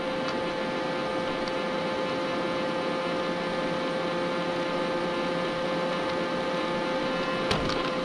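Robot vacuum cleaner running: a steady motor and brush hum with a constant whine, and a single knock near the end.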